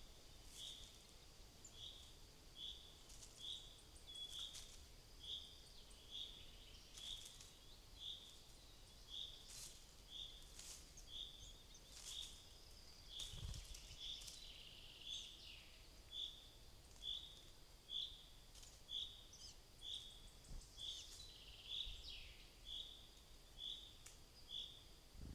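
Faint woodland birdsong: a bird repeating a single short high call about once every 0.7 seconds, over a thin steady high tone, with scattered sharp clicks.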